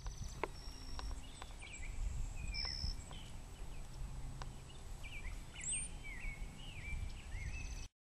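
Several small birds chirping in the background, short notes that dip in pitch, coming thicker in the second half, over a low rumble on the microphone. A few sharp clicks sound in the first half.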